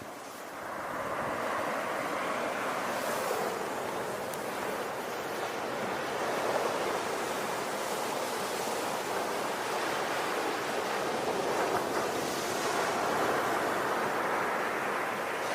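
Ocean surf: waves washing in as a continuous rush that swells and eases slowly.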